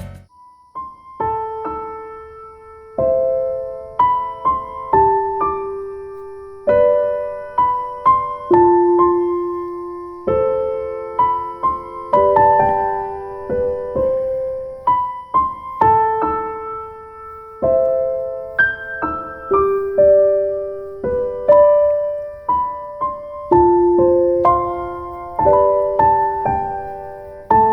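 Soft solo piano background music: slow, gentle chords and melody, each note struck and left to fade.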